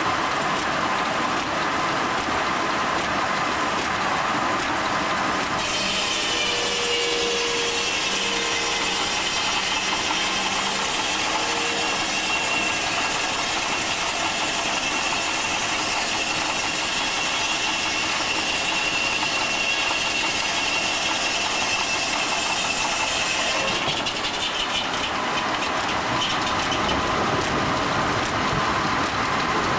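Steam-powered sawmill's saw blade cutting through a log: a high, steady whine that starts about six seconds in and stops some eighteen seconds later. Under it, the mill machinery runs steadily throughout.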